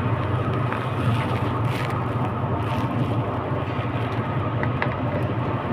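Steady low rumble of a train, a constant deep hum under an even hiss, with a few faint ticks.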